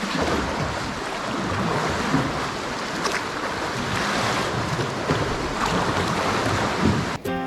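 Lake Superior water lapping and sloshing against a kayak, with wind on the microphone. Background music starts abruptly near the end.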